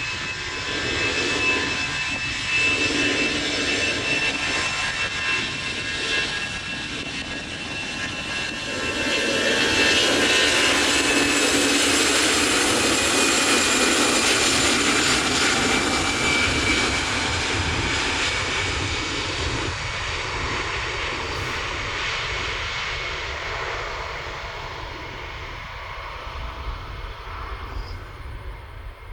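Jet airliner's engines passing close by: a broad rushing noise with a steady high fan whine. It grows to its loudest about nine seconds in, holds, then fades away.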